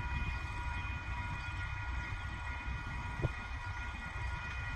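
Freight train approaching in the distance: a steady low rumble with several steady high tones over it, and one brief knock about three seconds in.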